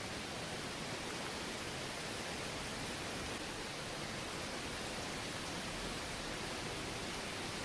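Steady, even rushing of a river flowing, unchanging throughout.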